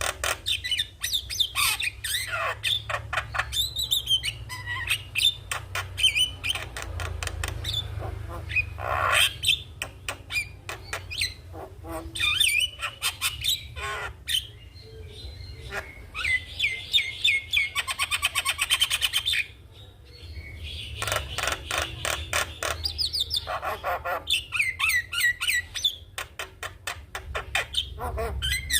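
Javan myna singing in full voice: rapid clicking chatter mixed with whistled notes and harsh squawks, with a long dense rasping stretch a little past the middle and a brief pause after it.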